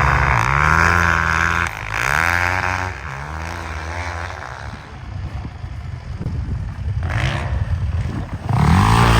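Small off-road vehicle engine revving up and easing off repeatedly, loud and close. About three seconds in it drops to a lower, uneven running, then revs up hard again near the end.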